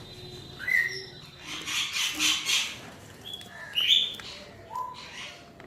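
Pet parrots calling: short whistled notes mixed with several harsh squawks.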